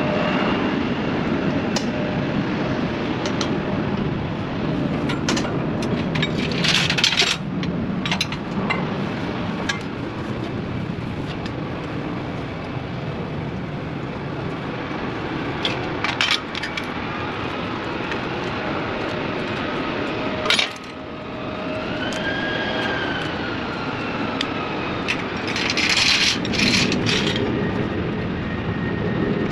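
Metal clinks and taps of hand tools being handled, heard a few times, over a steady mechanical rumble of running engines.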